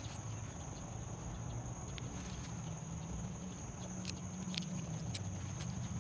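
Outdoor garden ambience: insects hold a steady high-pitched drone over a low rumble. A few sharp clicks and rustles come near the end.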